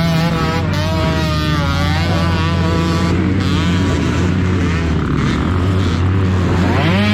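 Motocross bike engines running and revving, more than one at a time, their pitch shifting as throttles are worked, with a sharp rise in pitch just before the end.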